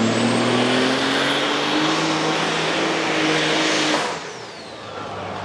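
Super stock pulling tractor's turbocharged diesel engine at full power under load, its note and a high turbo whine climbing steadily. About four seconds in the engine cuts off and the whine winds down.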